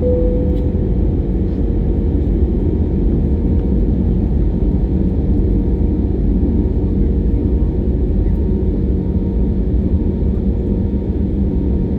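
Steady low rumble of engine and airflow noise inside the cabin of an Airbus A321neo airliner, with a faint steady hum. A short tone at the very start fades out within about a second.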